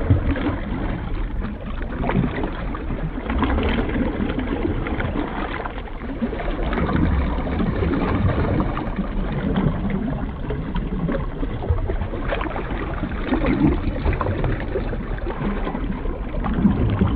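Muffled, churning water noise, as picked up by a camera filming underwater: a steady low rush with small irregular splashes and bubbles.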